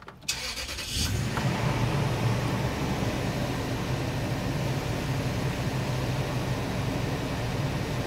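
2006 Toyota Tundra cold start: the starter cranks briefly, the engine catches about a second in, and it then idles steadily.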